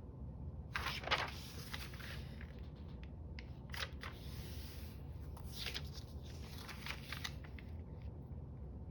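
A strip of paper being handled and folded: scattered soft rustles and crinkles, the loudest about a second in.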